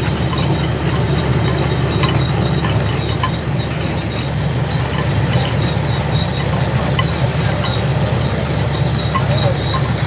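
Steady low drone of a squid-jigging boat's machinery running, with a few faint clicks scattered through it.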